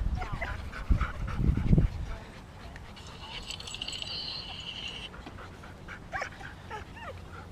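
Dogs whining and yipping in short, sliding high calls near the start and again about six seconds in. A louder low rumble around one to two seconds in, and a steady high-pitched sound for about two seconds in the middle.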